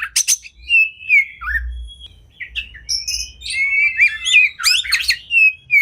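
Oriental magpie-robin (kacer) singing a fast, varied song of whistles, chips and quick rising notes, packed with mimicked fill-in phrases, growing busier and louder about four seconds in.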